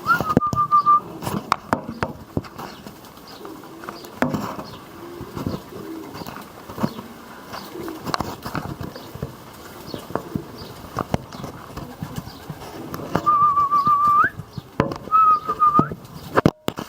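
Young white Serbian pigeons: low cooing, three high wavering whistle-like calls (one ending in a quick upward sweep) and scattered clicks and knocks.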